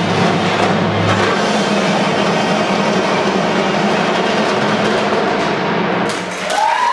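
Drumline playing loudly near the end of a show, a low sustained note dropping out about a second in. Just after six seconds the playing breaks off and a high rising cry comes in as the crowd starts to cheer.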